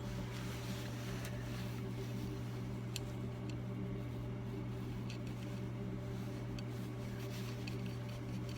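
Steady low mechanical hum, with a few faint, light clicks of small metal tools being handled.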